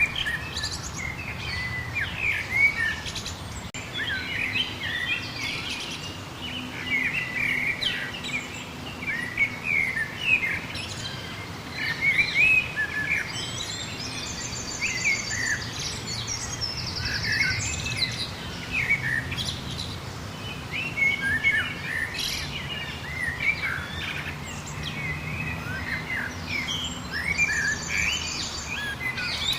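Many songbirds chirping and singing at once in a dense, continuous chorus of short whistles and chirps. A fast, high trill cuts in briefly twice, around the middle and near the end.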